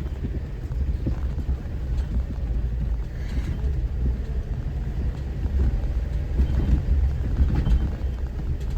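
Four-wheel-drive vehicle crawling along a rough dirt mountain trail in four-high: a steady low engine and drivetrain rumble, with scattered knocks and rattles as it goes over the rough ground.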